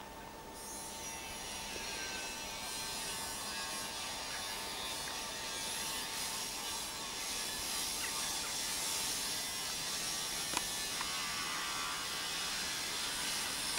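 A TEP70BS diesel locomotive and its passenger coaches pulling away over the station tracks: a steady mechanical rumble and hiss of engine and wheels on rails. A thin steady tone runs through the first half and fades out, and there is one sharp click about three quarters of the way through.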